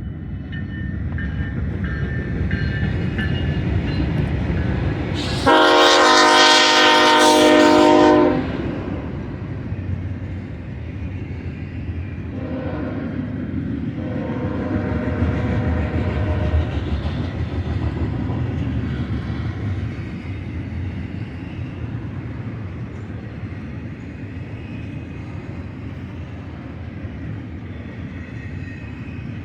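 Diesel freight train rumbling past, its lead locomotive a GE ES44DC, with wheels clacking on the rails. About five seconds in, a loud multi-note air horn sounds for roughly three seconds. Two shorter, fainter horn sounds follow a few seconds later.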